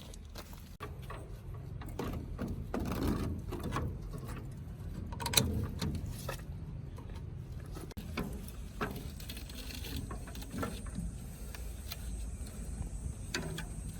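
Irregular clicks and knocks of hand tools and metal parts being handled on a rusted gearbox, with one sharper knock about five seconds in, over a low rumble.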